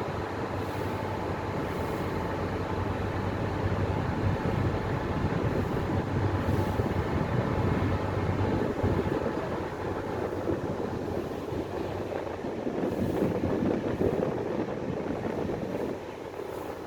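Ferry engine running steadily under way, a continuous drone with a low hum beneath a noisy rush.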